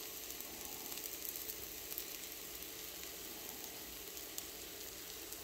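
Egg omelette and toast sandwich frying in a pan: a steady sizzle with faint, scattered crackles.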